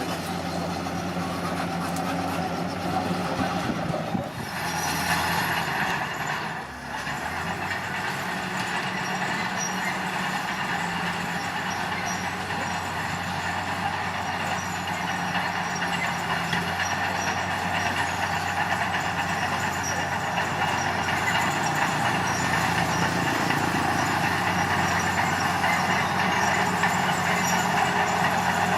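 Heavy diesel earthmoving machinery running steadily under work. A burst of air hiss comes about four seconds in and lasts a couple of seconds.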